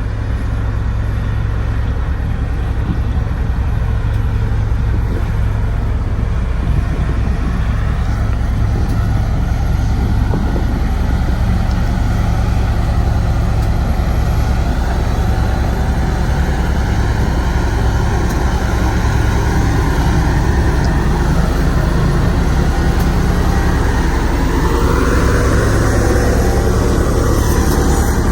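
Heavy diesel engine of a Sakai road roller running steadily under load, with a deep, even drone. A whining tone rises in pitch near the end.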